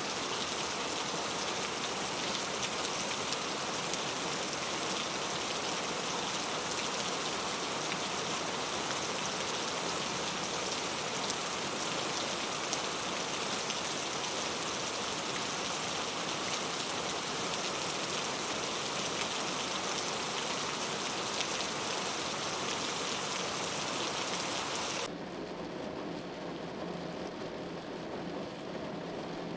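Steady, dense patter of precipitation falling on a surface, rain-like in character. About 25 seconds in it cuts off abruptly, leaving a quieter, duller noise.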